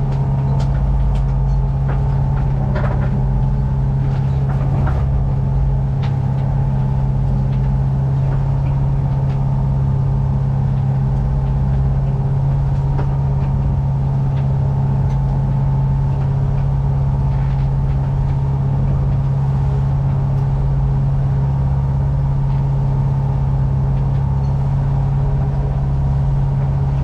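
Sailboat's inboard engine running at a steady speed: a constant low drone with a few faint knocks over it.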